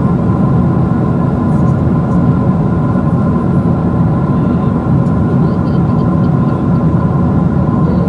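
Boeing 777-200 cabin noise: a loud, steady rumble of engines and airflow with a constant whine above it.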